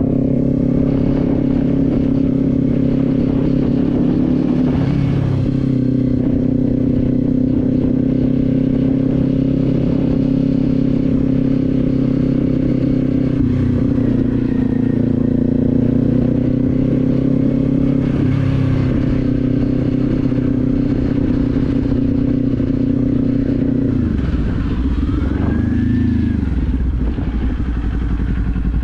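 Kawasaki Z400's parallel-twin engine running at a steady cruise while riding, its note dipping briefly a few times; about 24 seconds in it falls away, rises briefly and settles lower as the bike slows. A low wind rumble on the microphone lies under it.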